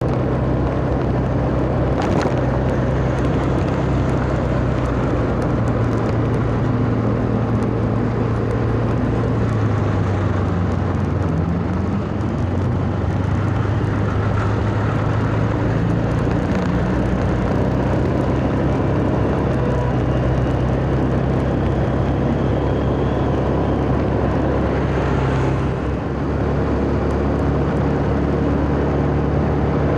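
Minibus engine running steadily; its pitch shifts a few times as the bus changes speed.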